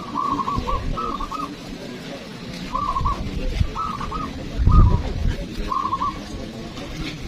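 Zebra doves (perkutut) singing short phrases of rapid, clipped coos, about six phrases that come every second or so. A low thud about five seconds in.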